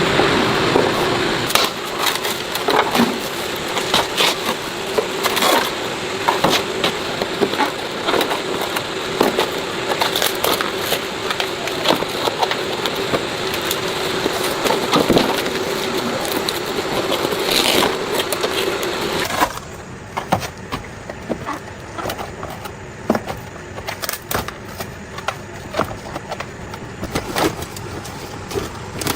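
Repair work noise: a steady noisy hum with many sharp knocks and clicks. About twenty seconds in it cuts to a quieter background with scattered knocks.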